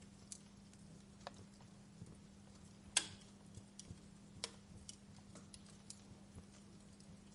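Wood fire in a fireplace crackling: scattered small, irregular pops and snaps, with a louder pop about three seconds in and another about a second and a half later, over a faint steady low hum.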